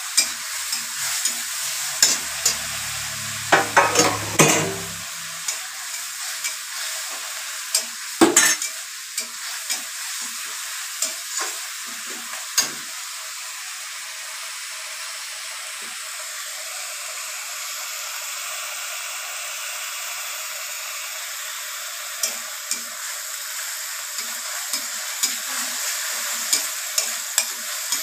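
Onion, garlic and whole green chillies sizzling in hot oil in an aluminium kadai, with steady frying. A metal spatula stirs the mix, clicking and scraping against the pan in the first half and again near the end, with a stretch of unbroken sizzling between.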